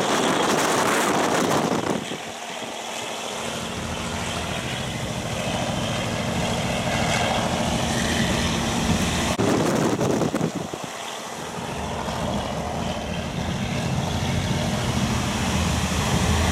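Running noise of a Japanese-built old-type passenger coach heard from inside: wheels on the rails and rushing air with a steady low hum. It is louder in the first two seconds and again briefly near the middle.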